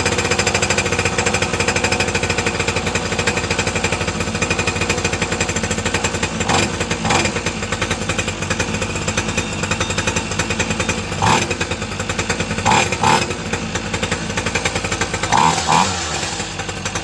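50cc mini moto two-stroke single-cylinder engine running steadily just after a cold start on the first pull, with a few brief louder blips. It is running cleanly on a freshly fitted spark plug after refusing to start on the old one.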